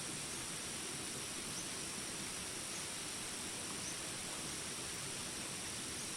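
Steady rain hiss with a constant high-pitched drone of jungle insects over it, and a few faint short chirps.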